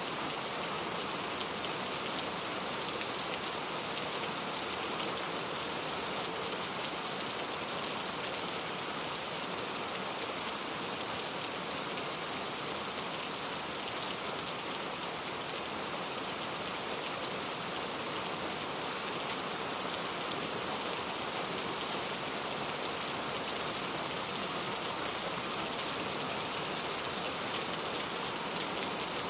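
Steady rainfall, with many small drops pattering on a surface and one slightly louder drop about eight seconds in.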